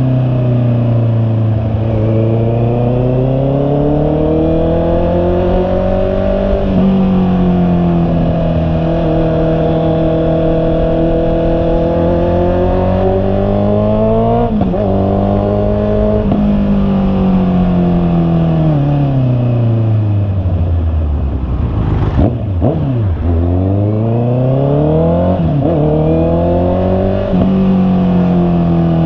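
Honda CB650R's inline-four engine pulling through the gears, its pitch climbing and then dropping sharply at each shift. About two-thirds in the revs fall away to near idle, a brief sharp click is heard, and the engine climbs again through several quick shifts.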